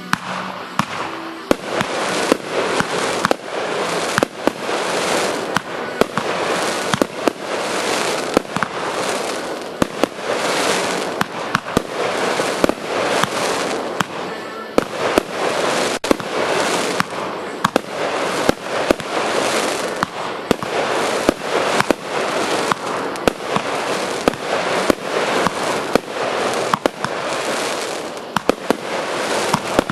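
Fireworks going off in a dense, continuous crackle, with many sharp bangs scattered through it without a break.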